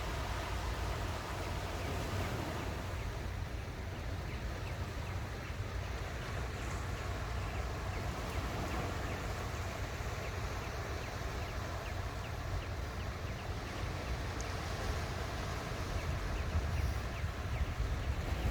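Ocean waves washing onto the shore in a steady rush, with a low wind rumble on the microphone.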